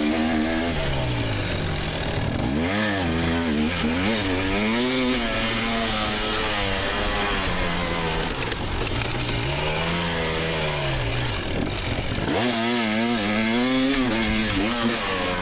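2024 GasGas EX300's 300cc two-stroke single-cylinder engine revving up and falling back again and again as the dirt bike is ridden hard, its pitch rising and dropping with each throttle change, over a rush of wind and track noise.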